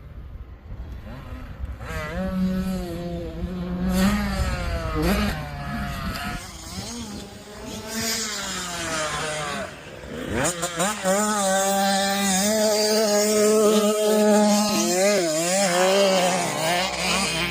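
Motocross dirt bike engines revving up and down as the bikes ride the track, with a sharp rise in revs about ten seconds in.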